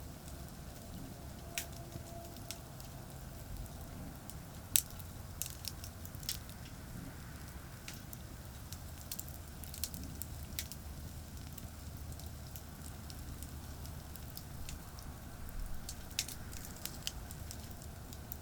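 Wood fire crackling, with scattered sharp pops at irregular intervals; the loudest pop comes about five seconds in. Under it runs a steady low rumble of distant highway traffic.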